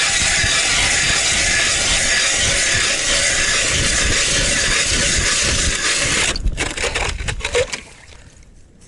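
Ice auger grinding and scraping steadily through the ice to drill a hole, stopping suddenly about six seconds in, followed by a few knocks.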